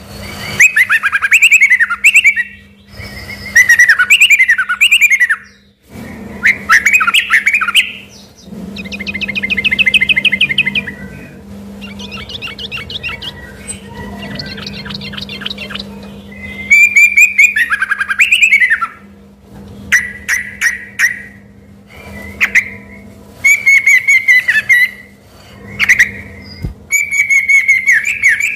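Yellow-vented bulbul (trucukan) singing loudly in a long string of short, gliding whistled phrases with gaps between them. Two spells of rapid, rattling repeated notes come in the middle.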